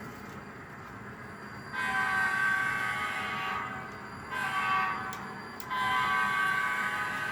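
Sound-equipped ScaleTrains SD40-2 model diesel locomotives running past with a low engine rumble, and a multi-note air horn from the model's sound decoder blowing a long blast, a short one, then another long one.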